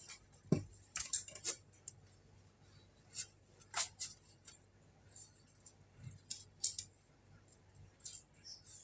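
Close-up eating sounds: scattered crisp crunches and sharp clicks, with light clinks of cutlery on a dish.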